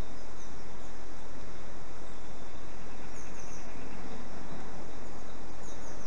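Steady rushing outdoor background noise, with a few faint, high, short bird chirps about half a second in, around three seconds in, and again near the end.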